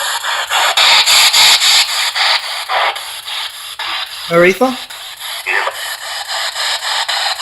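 P-SB7 spirit box scanning through radio frequencies: a loud hiss of static chopped into short bursts about four times a second, with brief fragments of broadcast sound.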